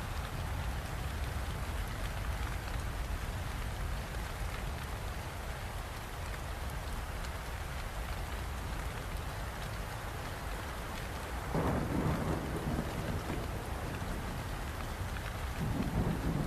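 Steady rainfall with a low rumble underneath, and two louder low rumbles: one about two-thirds of the way through and one at the end.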